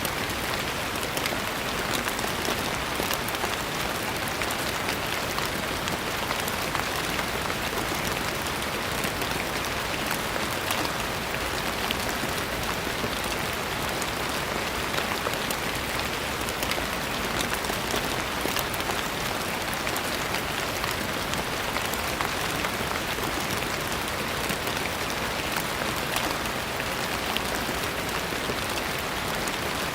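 Steady rain falling, a dense patter of drops on a hard surface with no gaps or swells.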